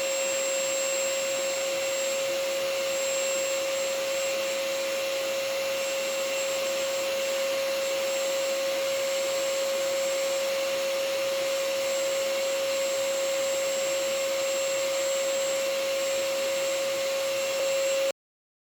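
Vacuum cleaner running steadily: an even rushing noise with a constant mid-pitched hum. It cuts off suddenly near the end.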